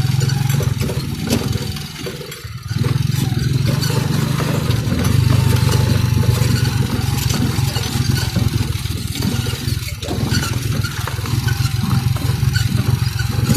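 Motorcycle engine running steadily while being ridden. It eases off briefly about two and a half seconds in, then picks up again.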